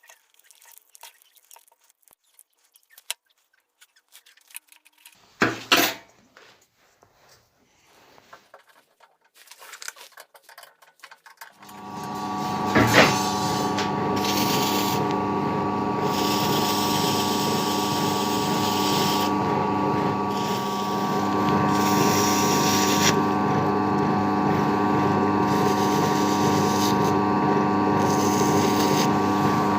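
Scattered small handling clicks and a knock, then an electric power-tool motor starts about twelve seconds in and runs steadily with a constant hum. A hissy, higher noise swells and fades several times over the hum.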